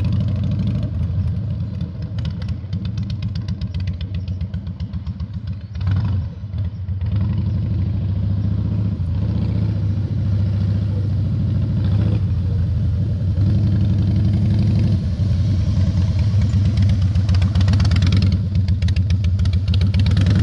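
Motorcycle engine running at low revs while the bike is ridden slowly through low-speed drills. It dips briefly about six seconds in, and the revs pick up a little in the second half.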